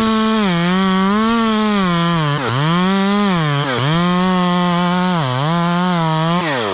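Stihl MS 201 two-stroke chainsaw with a 16-inch bar at full throttle, bucking dead pine into firewood rounds. Its pitch drops and recovers several times as the chain bites into the wood, and it falls back toward idle near the end.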